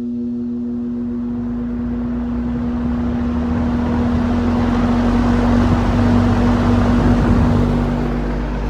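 Vintage Sears box fan running on high: the electric motor gives a loud, steady hum while the rush of air from the blades grows louder as it spins up, and the hum wavers about seven seconds in. The heavy hum is the sign of a motor the owner thinks is on its way out, or a bad switch.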